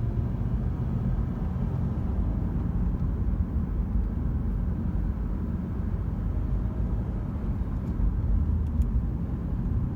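2015 Lexus RC 350 F Sport being driven at a steady pace: an even low rumble of engine and road noise, with no revving.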